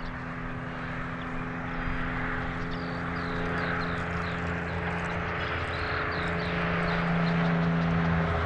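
A motor's steady drone, slowly growing louder, its pitch dropping slightly about six seconds in, as an engine passes by.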